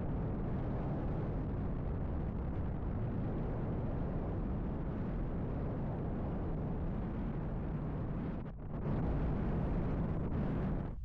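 Wind buffeting the microphone: a steady low rumbling rush, dipping briefly about eight and a half seconds in.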